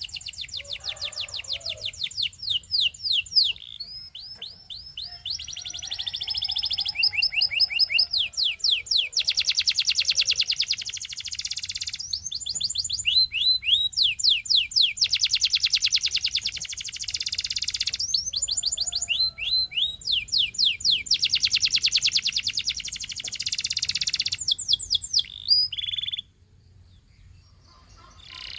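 Canary singing: phrases of fast repeated downward-sweeping notes alternate with long, dense rolling trills. The song breaks off about 26 seconds in.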